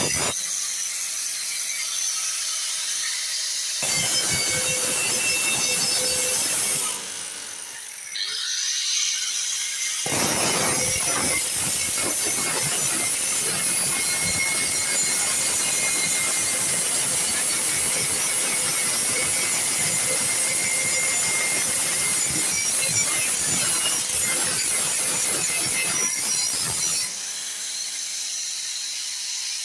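Harsh, steady mechanical noise from repair work, mostly high-pitched with a faint steady whine, changing abruptly several times.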